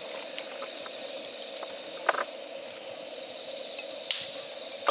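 Wood campfire burning with a steady hiss and scattered crackles and pops, a sharper pop about four seconds in.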